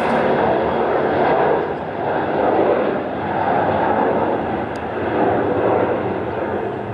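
Jet airliner engines at takeoff thrust during a departure, a loud, steady rumbling noise that swells and ebbs slowly and begins to fade near the end.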